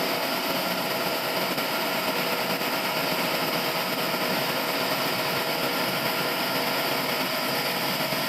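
Automatic sawmill machine running steadily, a continuous even noise with faint constant tones and no distinct strikes.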